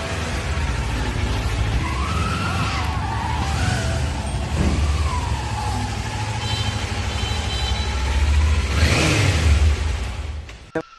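Kawasaki Ninja 400 engine running with the bike standing still, revved several times so the pitch rises and falls, loudest near the end, then cut off sharply just before the end.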